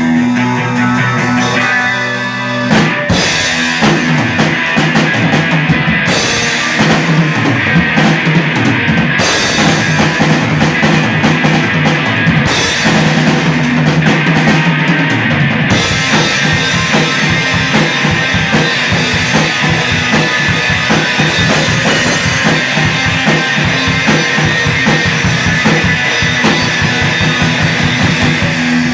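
Rock band playing live: a guitar part on its own, then the drum kit comes in about three seconds in and the full band plays on, with bursts of cymbal crashes.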